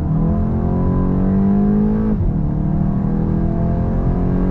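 Stock 2022 Volkswagen GTI (MK8) 2.0-litre turbocharged four-cylinder heard from inside the cabin, accelerating hard. The engine note climbs, drops with an upshift about two seconds in, then climbs again.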